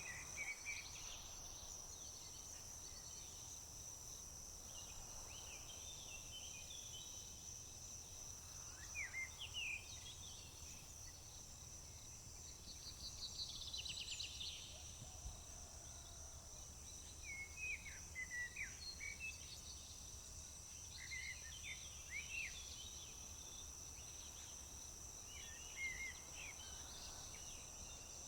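Summer field ambience: a steady high-pitched drone of crickets runs throughout, with scattered short bird chirps and calls. About halfway through there is a brief rapid trill.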